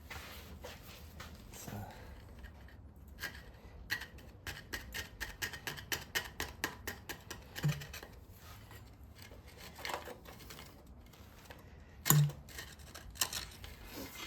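Screwdriver scraping and picking at the VW Beetle engine case, a rapid run of short scratches and clicks, followed by one louder knock near the end; he is digging out old debris down to bare metal to check whether it is corroded.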